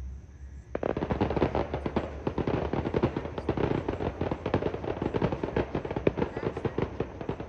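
Fireworks going off in a dense, rapid crackle of sharp pops and bangs that starts suddenly about a second in and keeps going without a break.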